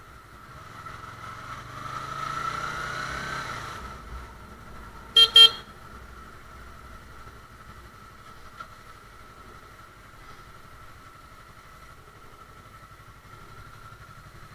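Motorcycle engine accelerating, its pitch rising for a few seconds, then two short horn honks about five seconds in, with the engine running steadily under the rest.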